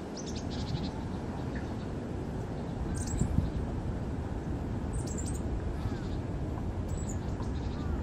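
Small birds chirping: a quick run of short calls in the first second, then single brief high chirps about every two seconds, over a steady low rumble.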